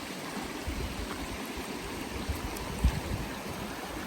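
Stream water flowing steadily, with a few low bumps and rumbles on the microphone, the loudest about three seconds in.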